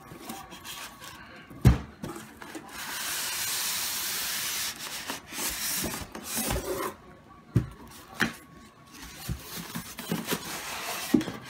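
Cardboard box being opened and a coffee maker pulled out of its packing: a sharp knock about a second and a half in, a steady sliding, rubbing scrape for about two seconds, then scattered knocks and handling noises.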